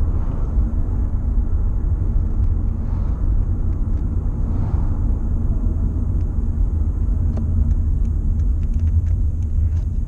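Car in motion: a steady low rumble of road and running-gear noise.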